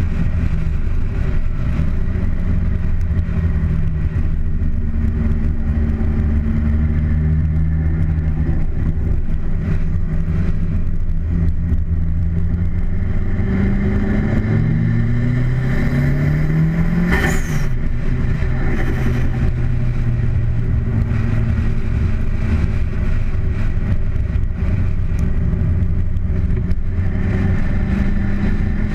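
Car engine pulling along a steep wet road, heard through heavy wind and road noise on a bonnet-mounted camera. A little past the middle the engine note rises for a few seconds as it accelerates, ending in one brief sharp sound.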